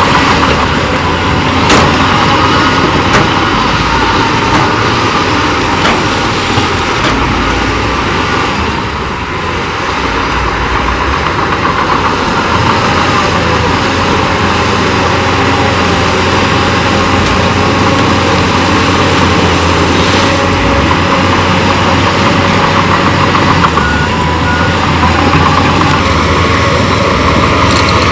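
Diesel engines of heavy earthmoving machinery, bulldozer and dump trucks, running steadily under work, with a brief dip about a third of the way through and a few sharp knocks.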